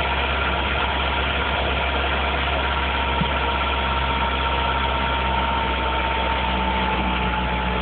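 1986 Nissan Cherry's 1.3-litre four-cylinder petrol engine idling steadily on a cold start, running again after four years laid up. A thin steady whine rides over it, dropping slightly in pitch near the end.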